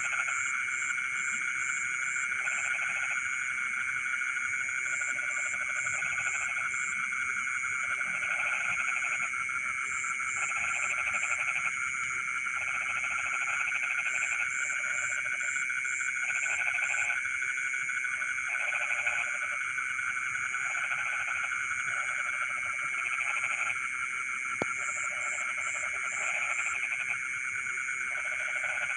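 Night-time chorus of frogs in flooded rice fields: croaking calls repeating every second or two over a steady shrill drone, with short series of rapid high chirps coming and going.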